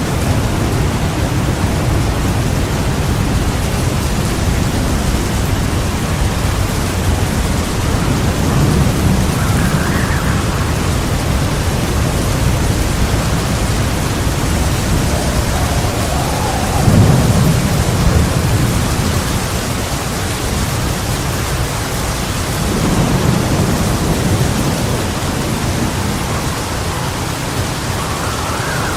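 Heavy rain falling steadily, with three low rolls of thunder; the loudest comes a little past halfway.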